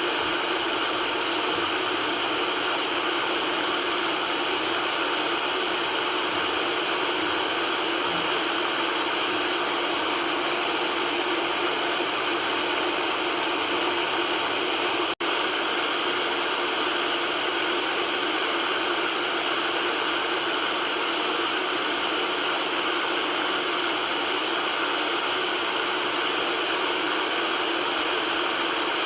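Steady white noise, an even hiss with little bass. It cuts out for an instant about halfway through, like a loop splice.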